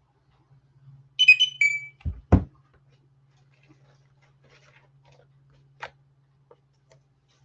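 A short electronic chirp of a few quick high beeps ending in a slightly longer tone, like a device alert, followed at once by two dull thumps. A faint steady low hum runs underneath.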